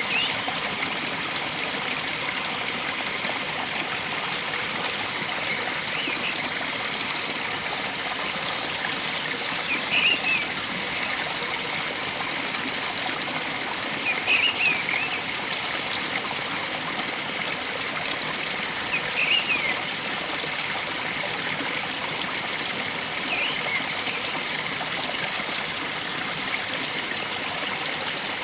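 Stream water flowing steadily, with a bird giving a short chirping call every few seconds.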